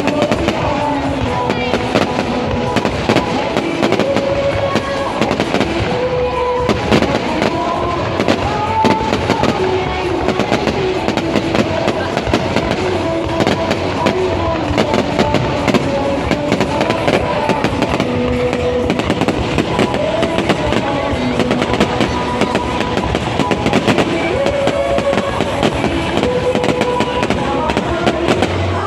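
Fireworks display: a dense, continuous run of bangs and crackles, heard over music with a clear melody.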